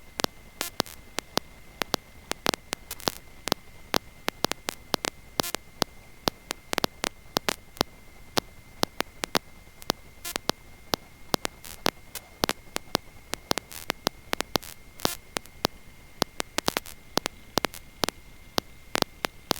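Electrical static on an aircraft intercom audio feed: an irregular crackle of sharp clicks, several a second, over a steady high-pitched whine and a low hiss. The engine itself is not heard.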